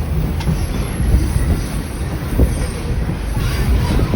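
Heritage Evans wooden passenger carriage running on the rails, heard from inside: a steady low rumble with scattered clicks from the wheels and a faint high squeal near the end.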